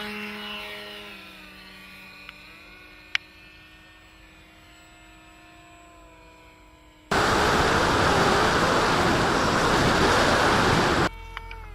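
An RC model Cessna's motor and propeller drone as the plane flies, the pitch slowly dropping and the sound fading as it moves away. About seven seconds in, a loud steady rush of noise starts suddenly and cuts off sharply some four seconds later.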